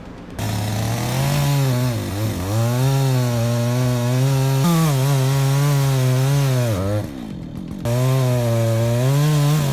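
Chainsaw cutting wood under load, its engine note sagging and recovering as the chain bites. It drops off briefly about seven seconds in, then picks back up.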